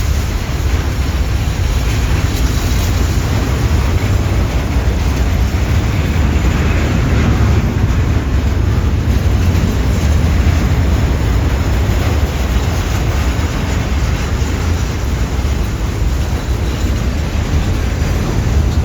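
Freight train of container wagons rolling past on the track: a steady, heavy, low rumble of wheels on rail that keeps an even level throughout, with some wind on the microphone.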